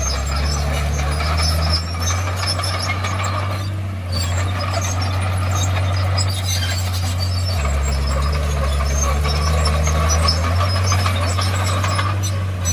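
Bulldozer diesel engine running under load, its note shifting a couple of times, with scattered metallic squeaks and clatter from the working machine.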